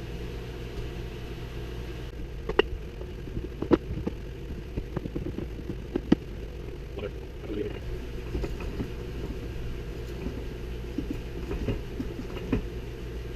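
Dry rebuilt differential from a 2013 Hyundai Genesis Coupe being turned and worked by hand, with sharp metal clicks and knocks at irregular moments over a steady low hum. The bearing rollers can be heard because the unit has no fluid in it.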